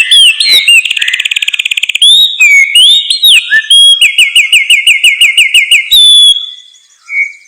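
A songbird singing a loud, varied song of whistled phrases: a fast trill, quick slurred notes, then a run of about eight repeated down-slurred notes a second that stops abruptly about six seconds in. Fainter, lower chirps follow near the end.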